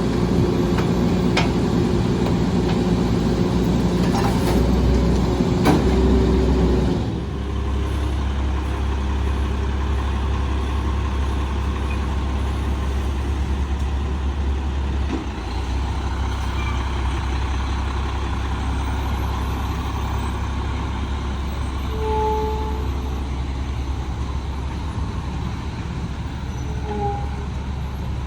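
Rear-loader trash truck's diesel engine running, busier and louder for about the first seven seconds, then dropping to a steady low drone. Two short high squeaks come late on.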